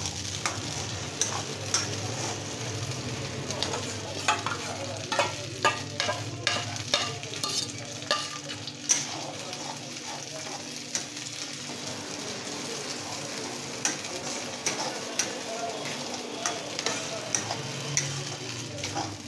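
Grated fresh corn paste sizzling in ghee in a metal kadhai while a spatula stirs it, with frequent short scrapes and knocks of the spatula against the pan, over a low steady hum.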